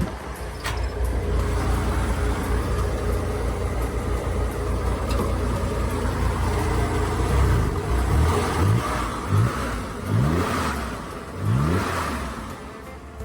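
Car engine running steadily, then revved in four or five quick blips near the end, each a short rising sweep in pitch.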